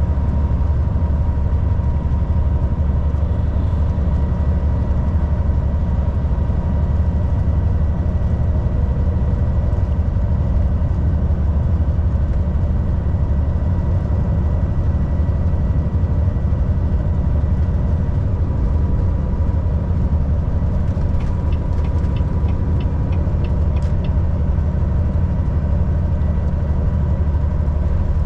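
Volvo VNL 760 semi truck's diesel engine running steadily at highway cruise, a deep constant drone mixed with road noise. A short run of light, evenly spaced ticks comes about three quarters of the way in.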